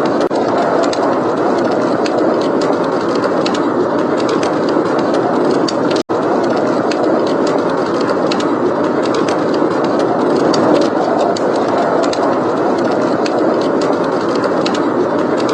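Blizzard wind blowing steadily, with a wood fire crackling in many small, sharp snaps over it. The sound cuts out for an instant about six seconds in.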